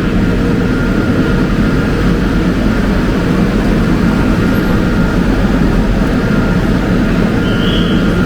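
Steady interior noise inside a Class 350/2 Desiro electric multiple unit: a low rumble with a faint, even hum over it.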